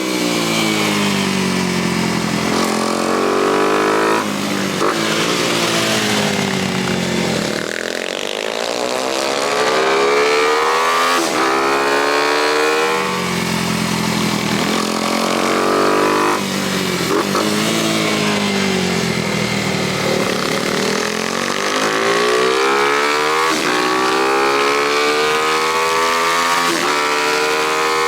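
Small single-cylinder motorcycle engine ridden hard around a tight track, its pitch climbing and dropping over and over every few seconds as it accelerates and backs off.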